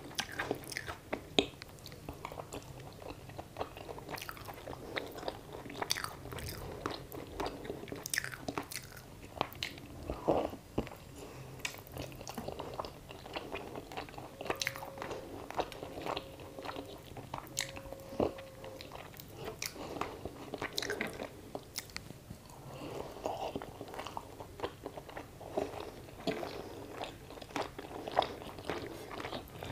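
Close-up chewing of mutton curry and rice eaten by hand: irregular wet chewing with many small, sharp mouth clicks.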